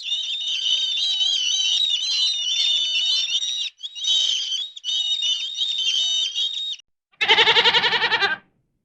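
Many small birds chirping at high pitch, in three stretches broken by short cuts, followed about seven seconds in by a single wavering bleat from a goat or lamb.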